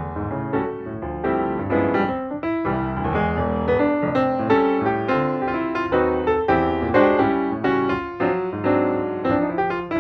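Piano music, with notes played in a steady flowing run.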